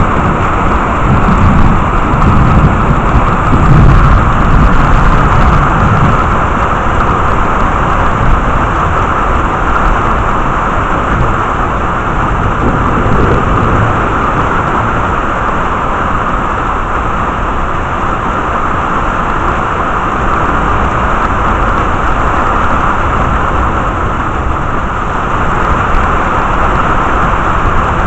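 Heavy rain falling steadily during a thunderstorm, with a low rumble of thunder in the first several seconds that dies away.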